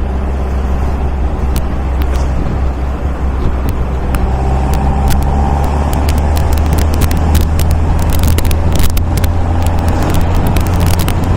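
MGA roadster's four-cylinder engine running steadily while driving, a low drone that builds slightly through the middle, with scattered sharp crackles over it.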